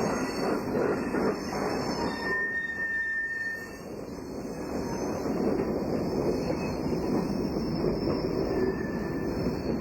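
A train of Baldwin diesel locomotives and cars rolling along the track with a dense rumble. Its wheels squeal briefly twice: a couple of seconds in, and faintly near the end.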